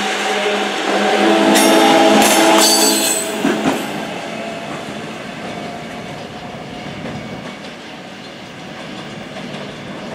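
A South Shore Line electric commuter train pulling away. For the first few seconds, as the last car passes close by, it is loud: a hum of several steady tones with a brief high squeal from the wheels. The rolling rumble then fades steadily as the train recedes.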